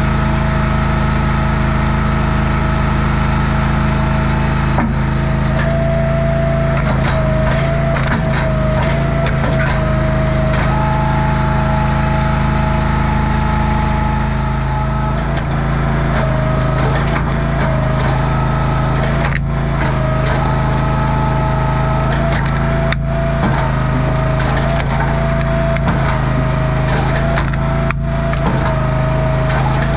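An engine-driven wood-splitting machine runs steadily with a constant whine, while wood cracks and splinters repeatedly as rounds are split.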